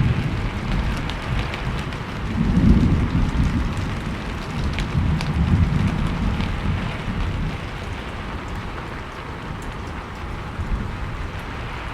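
Steady rain falling, a continuous hiss with scattered sharp drip ticks. Low rumbling swells rise and fall twice.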